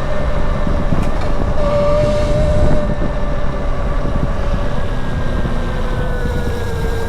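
Land Moto District electric motorcycle's motor whining at a steady pitch while riding, dipping slightly near the end, under heavy wind rumble on the microphone.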